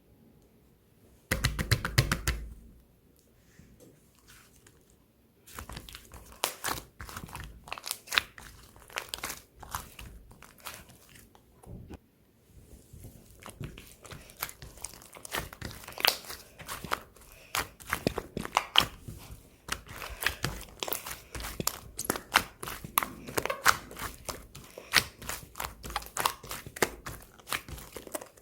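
Slime being pressed, stretched and kneaded by hand, giving dense, irregular crackles and pops. A brief louder handling knock comes about a second in.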